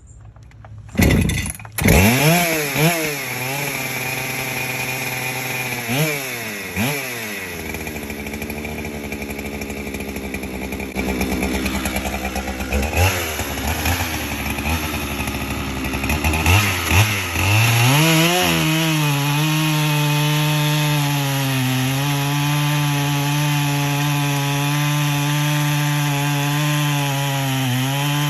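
Holzfforma two-stroke chainsaw starting up and being revved up and down several times in the first few seconds. It then runs unevenly, and from about two-thirds of the way in holds a steady high speed.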